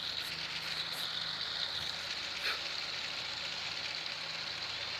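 Roundhouse Lady Anne live-steam garden locomotive running with a steady hiss of steam, no distinct chuffs.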